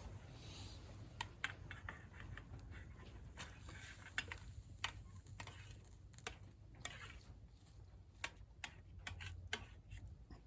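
Wood bonfire crackling: irregular sharp snaps, about one or two a second, over a low steady rumble.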